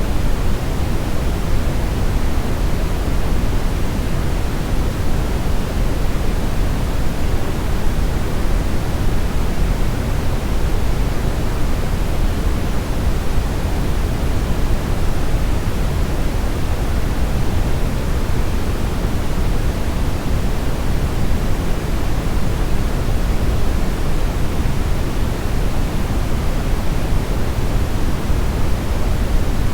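Brown noise: a steady, even rushing hiss weighted toward deep bass, with no changes or events.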